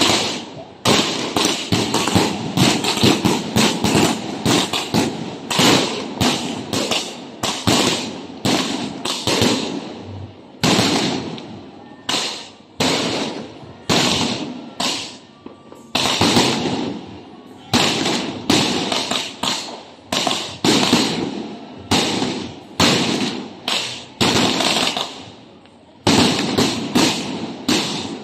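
A 49-shot fan-shaped salute fireworks cake with 1.2-inch tubes firing in sequence: shot after shot of sharp bangs, about one to two a second and sometimes in quick pairs, each with a short echoing tail. The firing ends shortly before the end.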